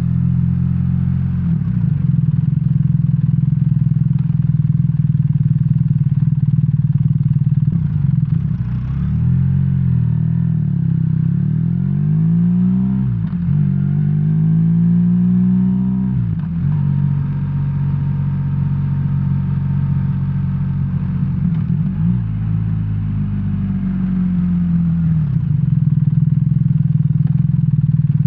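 BMW R1300R's boxer-twin engine, heard from the rider's seat, runs steadily at first. In the middle stretch it accelerates, its pitch climbing and dropping back at each gearchange, then it settles into a steadier run again.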